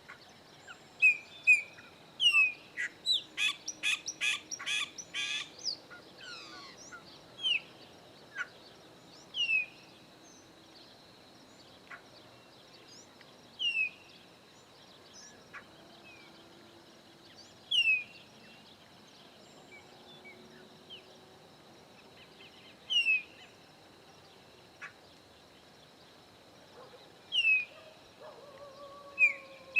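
Chopi blackbirds calling: loud, short, downward-slurred whistled notes every few seconds, with a quick burst of rapid chattering notes a few seconds in.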